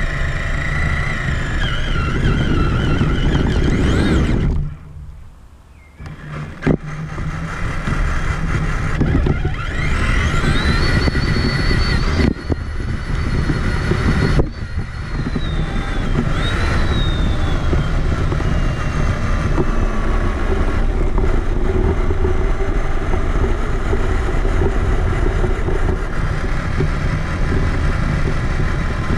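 Traxxas Summit RC monster truck driving, heard from a camera mounted on its body: the electric motor and geartrain whine, rising, holding and falling with speed, over a constant rumble of tyres and chassis on rough ground. The sound drops away briefly about five seconds in, then picks up again.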